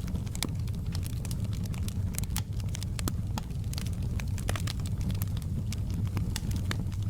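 Wood fire burning in a fireplace: a steady low rumble of the flames with irregular crackles and sharp pops from the burning logs, several a second.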